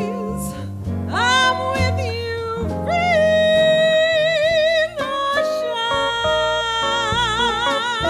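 Live jazz band with guitar, bass and drums playing a slow ballad, while a lead line of long held notes with wide vibrato, some sliding up into pitch, sounds over it.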